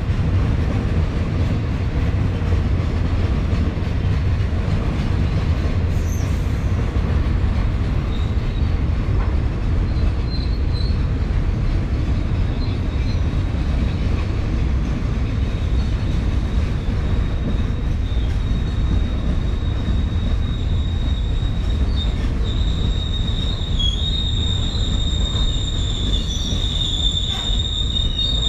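Container freight train's wagons rolling past on the track with a steady low rumble. From about halfway a high, steady metal squeal from the wheels sets in and grows loudest near the end.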